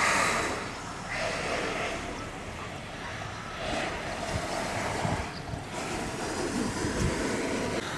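Rushing noise with swells, wind buffeting the microphone during a snowboard run, with a few low thumps in the second half.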